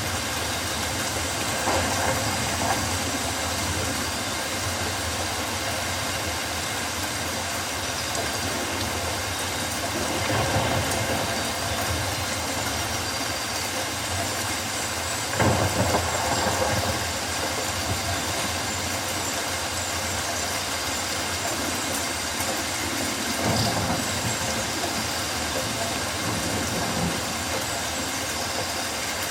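Steady rain falling on rainforest foliage, an even hiss with a few brief louder swells.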